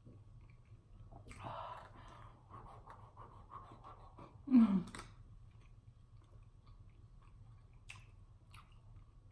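A person chewing a sauced chicken wing, with wet mouth clicks and smacks, a breathy rush of air a little over a second in, and a short falling "hoo" about four and a half seconds in as air is blown out through pursed lips against the heat of the spicy sauce.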